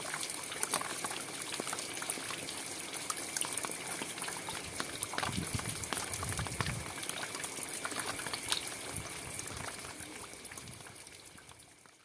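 Steady rainfall, a constant hiss of rain with many individual drops clicking sharply through it. The sound fades out over the last two seconds.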